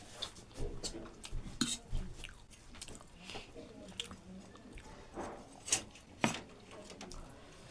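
Close-up eating sounds: slurping and chewing spicy instant noodles, with irregular wet smacks and clicks.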